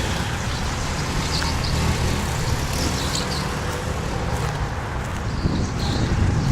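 Motor vehicle running steadily, a continuous engine and road noise with a low hum.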